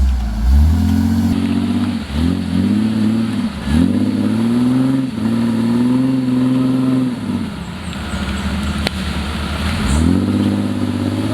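Off-road vehicle's engine revving in several rising surges, its pitch climbing and holding high. It drops back for a few seconds, then revs up again near the end.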